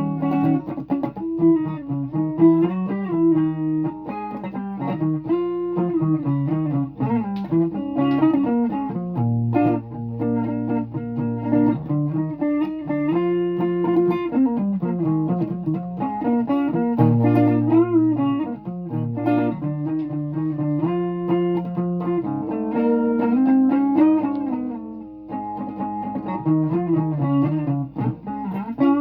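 Guitar being played: a continuous run of plucked notes and chords, with a melody over lower bass notes.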